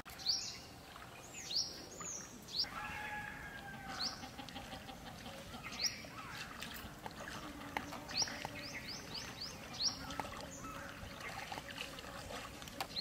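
Birds calling: short, sharp high chirps that drop in pitch, scattered through, with a quick run of five or six about eight seconds in.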